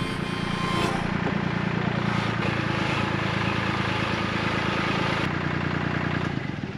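Excavator's diesel engine running steadily, falling away just before the end.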